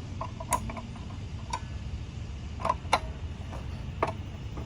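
Scattered sharp metal clicks and taps, about half a dozen, from the two blade wrenches fitted on a DeWalt table saw's arbor nut and arbor flange as the nut is worked loose.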